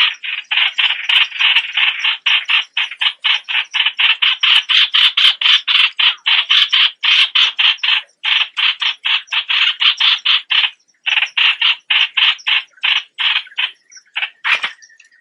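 Streak-eared bulbul calling in a long, rapid run of short chattering notes, about four or five a second. The run pauses briefly twice past the middle and thins out into a few spaced notes near the end.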